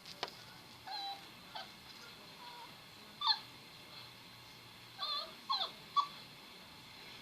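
A young animal's short, high whimpering cries, about seven of them, some sliding down in pitch, with a single sharp click near the start.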